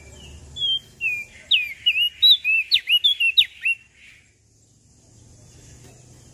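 Opior jambul (prenjak daun) songbird singing one quick, lively phrase: a run of clear whistled notes, many swooping sharply down in pitch. It stops just before the middle, leaving only faint background hiss.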